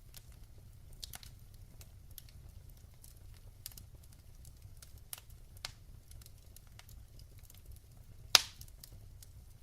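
Wood fire in a fireplace crackling, with scattered small snaps over a low steady rumble and one loud pop near the end.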